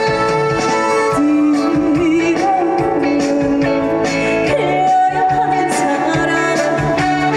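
Live trot song played over a stage sound system: full band backing led by electric guitar, with a woman singing a wavering melody line.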